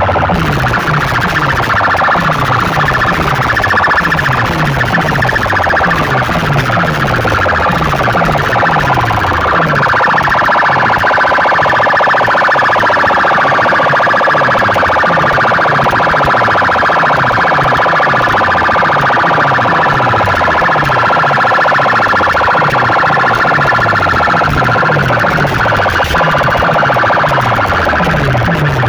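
Loud DJ sound-box system playing a siren-like effect track: a steady wailing tone over a deep bass note that drops in pitch over and over, about twice a second.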